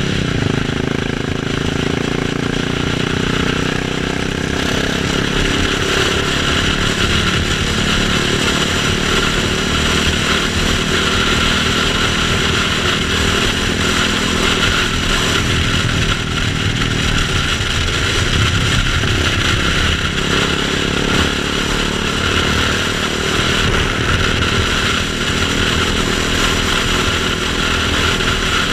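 KTM Duke 690 single-cylinder motorcycle engine running under way, its pitch rising and falling a little with the throttle, under a steady rush of wind noise.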